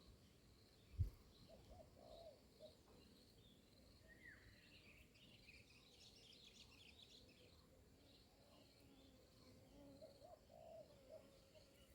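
Faint cooing of spotted doves, a short phrase about two seconds in and another near the end, with small birds chirping in between. A single soft thump about a second in.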